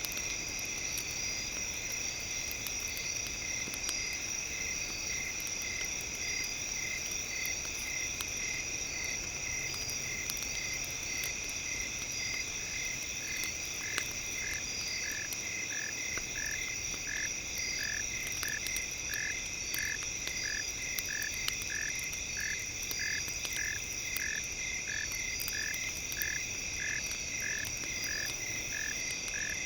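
Several steady high-pitched tones with a short pulse repeating about twice a second, joined about halfway through by a second, slightly lower pulse series, over light campfire crackle.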